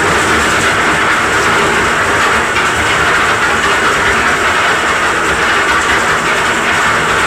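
Cement mixer's engine running steadily under load as it drives a hoist lifting concrete, a loud continuous mechanical clatter.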